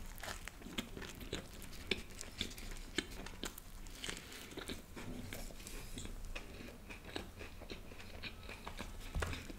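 Biting and chewing toasted paneer garlic bread: a steady run of short, crisp crunches from the toasted crust.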